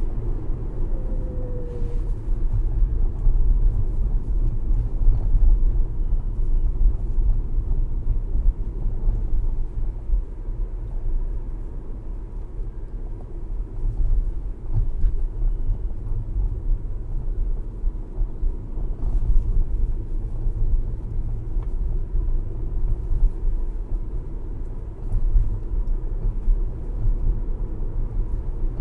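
Tesla Model S driving, heard from inside the cabin: a steady low road and tyre rumble with no engine note, broken by a few faint clicks and knocks from the underbody. These are the kind of low-speed suspension rattles the owner complains of.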